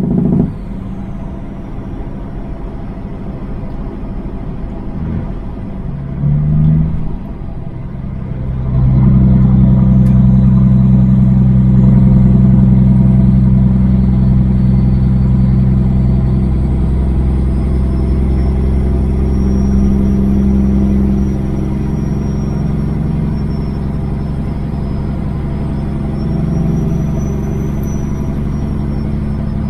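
Semi truck's Caterpillar diesel engine running under load as the truck gets under way. It grows much louder about eight seconds in and then holds steady, with a faint high whine rising and falling above it.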